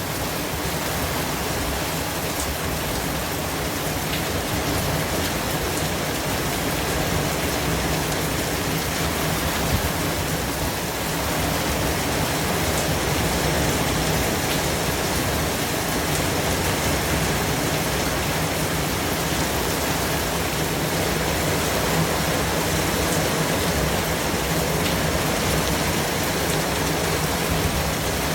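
Steady white-noise track: an even hiss spread across all pitches, holding the same level throughout.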